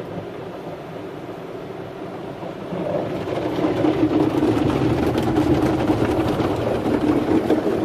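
Tunnel car wash machinery working over a car, heard from inside the cabin: a steady rumble and hiss of spinning brushes and water spray on the body, growing louder about three seconds in, with a dense spattering crackle.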